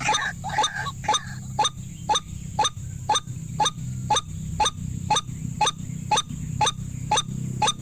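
White-breasted waterhen calls: a louder, rougher run of calls that fades within the first second, then short notes repeated evenly at about two a second. A steady low hum runs underneath.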